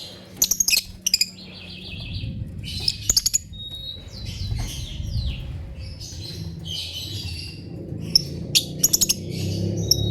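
Lovebirds chirping and chattering, with clusters of sharp, shrill calls about half a second in, around three seconds in and again near the end, over a steady low rumble.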